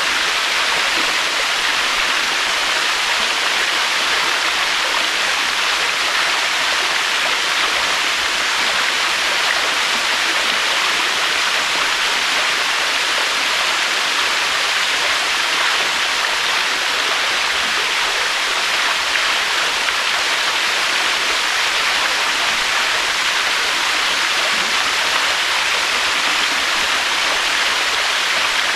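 Waterfall: a steady, even rush of falling water that holds the same level throughout, without swells or breaks.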